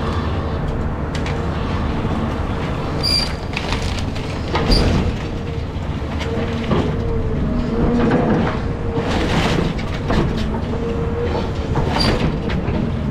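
Caterpillar 323 excavator running under load, its engine and hydraulics holding a steady whine that dips and swells as it works. Knocks and crunches of demolition debris come through, with a few short, high metallic squeaks.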